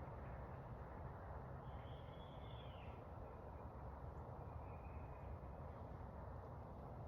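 Quiet outdoor background with a steady low hum. A bird calls briefly about two seconds in, and again faintly around five seconds.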